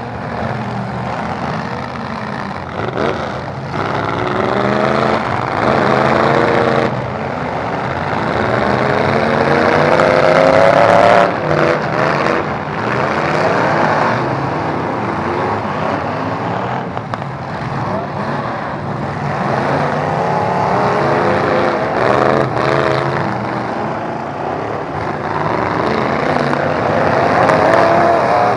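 Engines of several demolition derby trucks revving hard, their pitch repeatedly climbing and dropping as the trucks accelerate and back off, with a few sharp knocks about midway.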